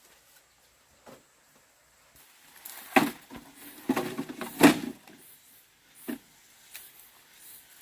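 A handful of sharp knocks and clatters, the loudest about three seconds in and again near five seconds, with rustling in between.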